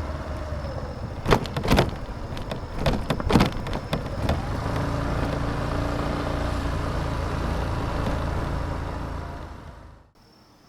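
A motor vehicle engine running steadily, with a cluster of sharp clicks or knocks about one to three and a half seconds in; the engine sound fades out near the end.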